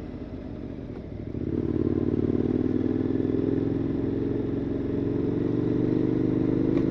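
KTM 1290 Super Adventure S's V-twin engine through a Wings titanium exhaust, running gently at first, then opening up about one and a half seconds in and pulling on with its note rising slightly toward the end.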